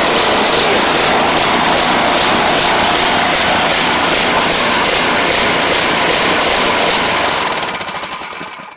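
Husqvarna ST224 snowblower's engine running at speed with a steady, rapid beat, then winding down and stopping near the end.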